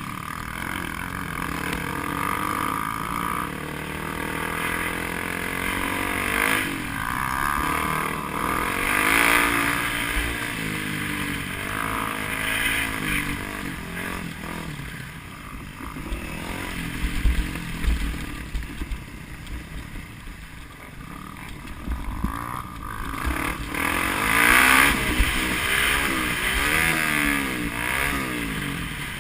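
Enduro motorcycle engine revving up and down over and over, with a few sharp knocks partway through.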